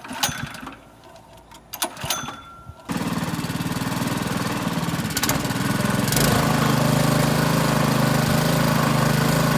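Rental pressure washer's small Honda gas engine catching about three seconds in, after a few clicks, and then running steadily, a little louder from about six seconds in. It is a hard start: the engine has refused several pulls before finally running.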